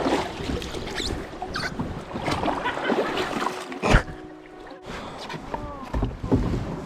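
Canoe being launched and paddled off: irregular water splashing and knocks on the hull, with one sharp knock about four seconds in.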